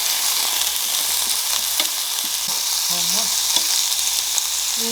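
Raw Korean BBQ meat sizzling on a portable tabletop grill: a steady frying hiss with a few small pops. A brief vocal sound comes about three seconds in.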